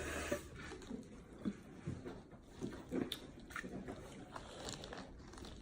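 Close-up chewing and mouth sounds of someone eating seafood boil: a string of soft, irregular smacks and clicks.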